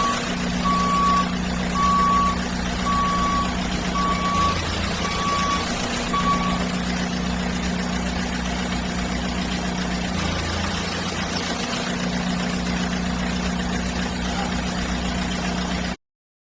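A toy JCB's electronic engine sound running as a steady low drone that shifts pitch a few times. Reversing beeps sound about once a second, then stop about six seconds in, and all sound cuts off just before the end.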